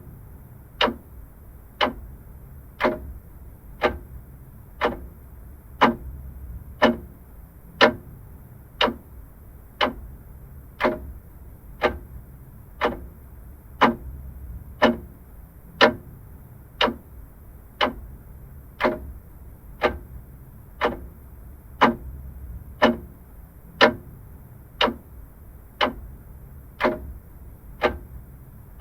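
Vintage clock ticking evenly, about one tick a second, over a faint steady low hum.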